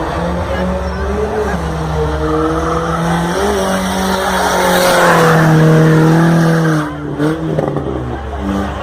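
A car engine held at high revs while its tyres squeal, as in a burnout. The sound swells to its loudest about five seconds in and cuts back sharply near seven seconds.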